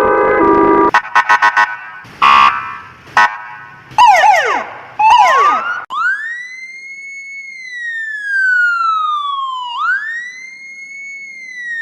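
A quick run of short horn and alarm sounds: a held chord, a few sharp bursts and fast sweeping tones. Then a wail siren rises, falls slowly over about four seconds, and rises again near the end.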